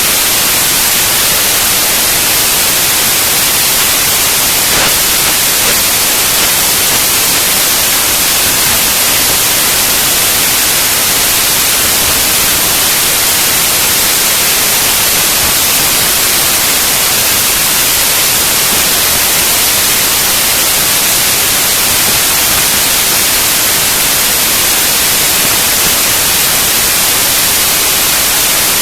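Loud, steady hiss like static or white noise, even throughout with no breaks or distinct events.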